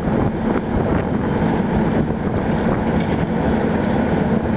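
A train running on the tracks: a steady rumble with a constant low hum.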